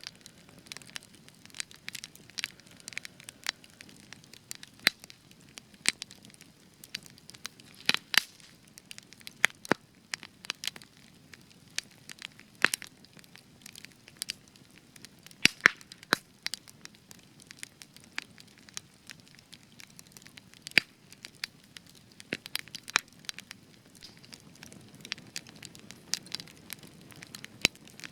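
Spruce-wood fire crackling, with irregular sharp pops and snaps over a faint low hiss of burning; the resinous spruce gives the frequent loud cracks.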